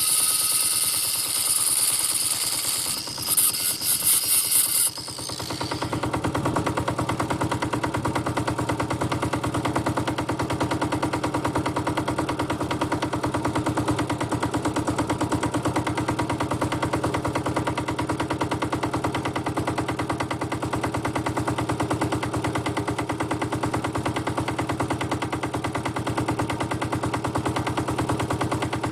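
Mini digger's air-cooled diesel engine running steadily, a fast even knocking rhythm. It follows a loud high hissing noise that cuts off about five seconds in.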